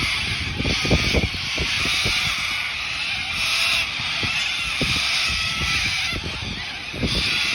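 A flock of cockatoos screeching: harsh, raspy calls in repeated half-second bursts, several overlapping, with low irregular thumps of wind on the microphone beneath.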